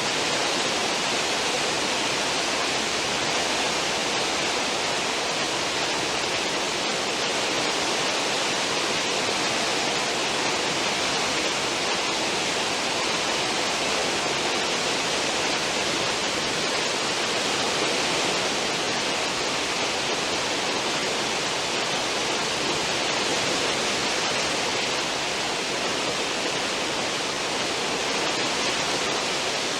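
Steady rushing of churning sea water in a cruise ship's wake, an even hiss with no breaks or separate splashes.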